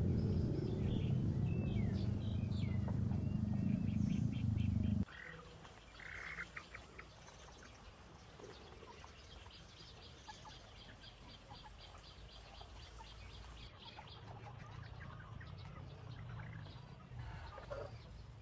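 Small birds chirping on and off. A loud low rumble covers the first five seconds and cuts off suddenly. After that come a fast, even trill of high ticks and scattered chirps.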